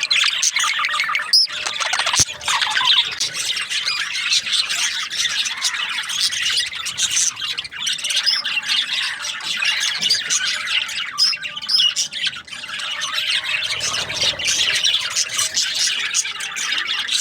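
A flock of budgerigars chattering: many overlapping chirps and squawks, continuous and dense, with no pauses.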